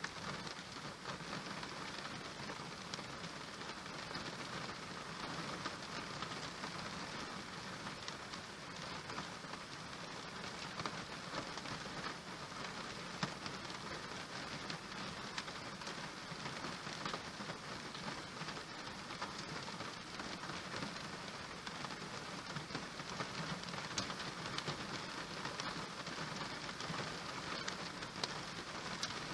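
Steady rain falling, an even, unbroken wash of many drops.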